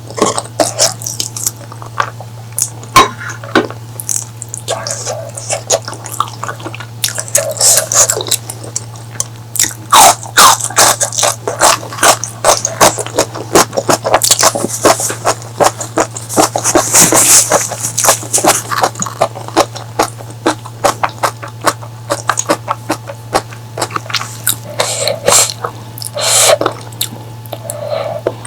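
Close-miked eating sounds: chewing, wet mouth smacks and clicks, irregular and continuous, over a steady low hum.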